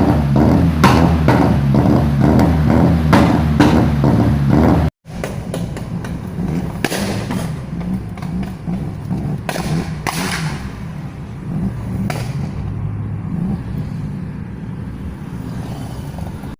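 Background music with a steady beat, then after a sudden cut a BMW engine running with a steady low rumble and a few brief rises.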